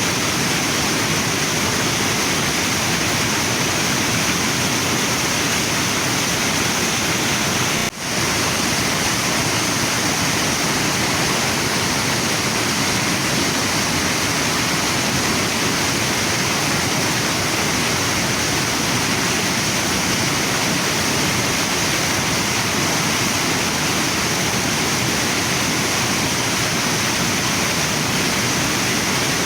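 Waterfall and river water rushing steadily, with a momentary drop in level about eight seconds in.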